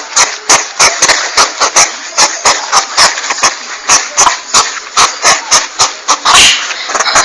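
Porcupine sounds from a looped hunting-lure recording: a fast run of sharp clicks or rattles, about four a second, over a hissing noise, with a longer rasping hiss about six and a half seconds in.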